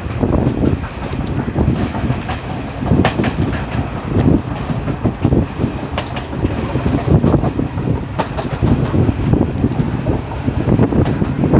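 Passenger train running on the rails: a loud, steady rumble with the wheels knocking over rail joints. A thin high wheel squeal comes in for a few seconds in the middle.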